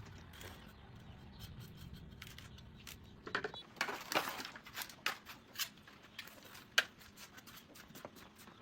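Hand tools and small metal parts being handled during a motorcycle tyre and inner-tube repair: a run of light clicks and scrapes in the middle, with one sharp click near the end.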